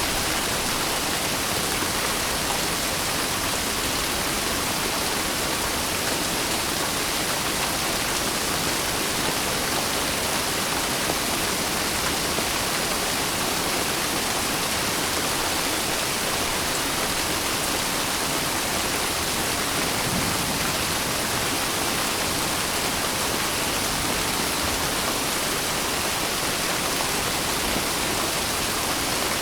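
Steady rain: an even, unbroken hiss of falling water with no distinct drops or thunder.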